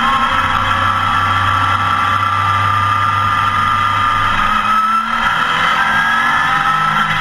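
Porsche 914 race car's engine heard from inside the bare, roll-caged cockpit, loud and harsh on the recording, its pitch rising steadily as the car accelerates, with a brief dip about five seconds in.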